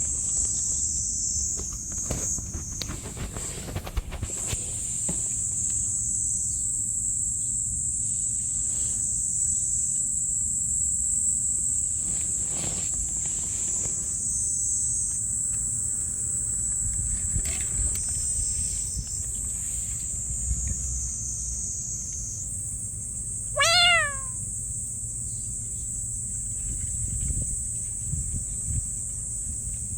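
A cat meows once, briefly, about two-thirds of the way through, over the steady high chirring of insects and a low outdoor rumble.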